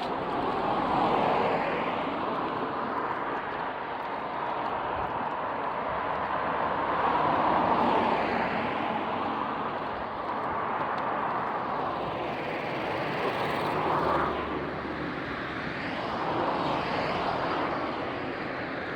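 Road traffic going by: a steady rush of tyre and engine noise that swells several times as vehicles pass.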